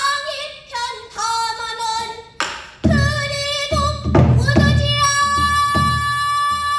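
A young female pansori singer's solo voice: wavering, sliding sung phrases ending in a long, steady held note from about five seconds in. Low thuds under the phrases are likely buk barrel-drum strokes accompanying the song.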